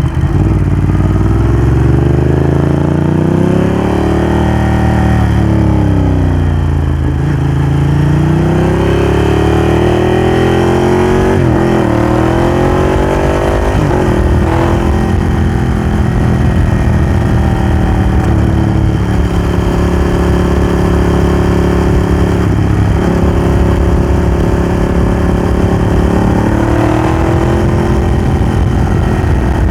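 Ducati Hypermotard 1100's air-cooled L-twin through a Termignoni exhaust, under way: the revs climb and fall repeatedly over the first half, with sudden drops in pitch, then the engine holds steadier speeds that step up and down a few times.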